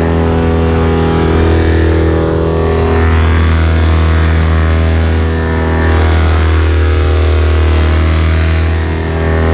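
Paramotor's two-stroke engine running steadily at constant power, with a hiss of wind over it.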